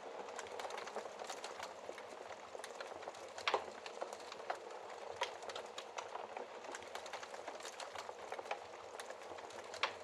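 Wood fire of used wood burning in a fireplace: a steady hiss with frequent sharp crackles and pops, the loudest pop about three and a half seconds in and another near the end.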